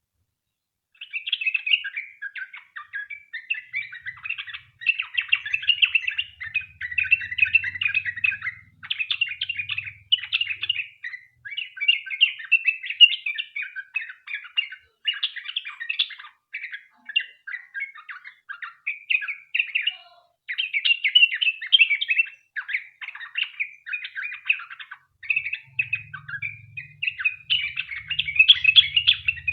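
Sooty-headed bulbul (trucukan) singing a long, fast, chattering song. Dense runs of short notes break off briefly and resume, starting about a second in.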